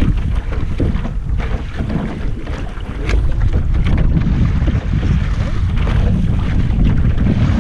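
Wind buffeting the microphone on a small sailboat under way, a loud uneven low rumble, with water splashing against the hull and small knocks of the boat's gear.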